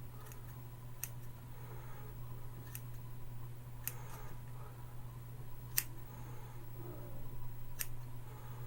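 Scissors snipping hair, about six sharp snips a second or two apart, over a steady low hum.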